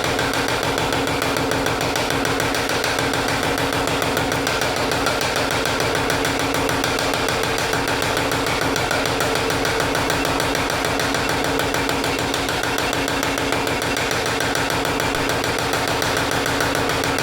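A machine running steadily, with a rapid, even pulsing and no let-up.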